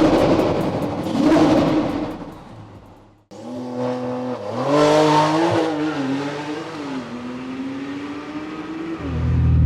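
Tuned Porsche 992 Turbo's twin-turbo flat-six with an aftermarket exhaust, accelerating hard in two short surges. After an abrupt cut it pulls again with the pitch rising and falling, then holds a steady note, and gets louder near the end.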